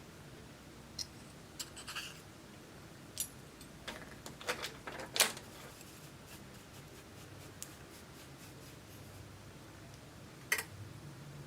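Scattered small clicks and scrapes of hands handling small items, loudest in a cluster a little past the middle and once more near the end, over a faint low hum.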